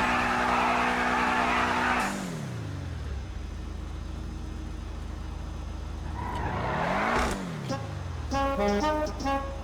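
Car engine held at high revs, then the revs fall away to a low, steady idle about two seconds in. About two-thirds of the way through it is blipped once, the revs rising and falling. Brass-led music comes in near the end.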